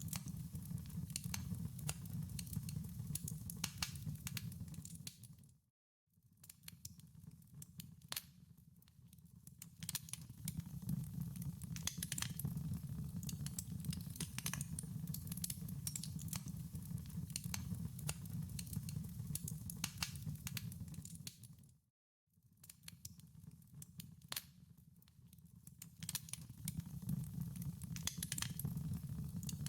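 Wood fire in a fireplace crackling, with many sharp pops and snaps over a steady low rumble. Twice, about six seconds in and again about twenty-two seconds in, the sound fades out to a moment of silence and then fades back in.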